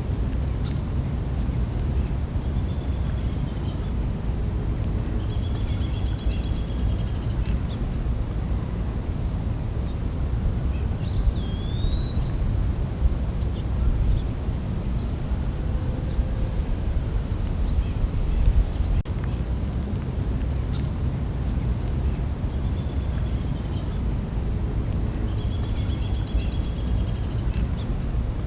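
Night forest ambience: a steady high-pitched insect drone with crickets chirping in quick trains of short pulses, and a few brief bird calls, one a rising-then-falling whistle about eleven seconds in. A low rumble runs underneath.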